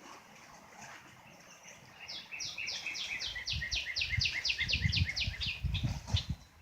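A songbird sings a fast series of repeated, downward-sweeping high notes, about five a second, starting about two seconds in and lasting about four seconds. Irregular low rumbling sits under the second half of the song.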